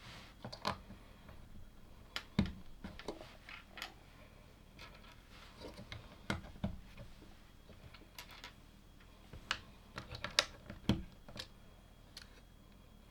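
LEGO plastic pieces clicking and snapping as they are handled and pressed together, in irregular sharp clicks with a few louder snaps.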